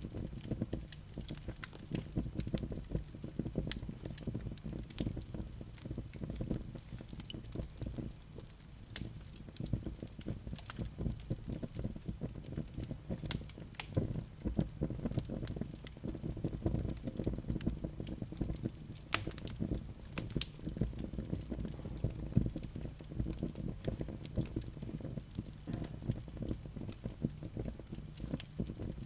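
Wood fire burning in a fireplace: dense crackling and popping of the logs over a low, steady rumble of the flames, with a few louder snaps.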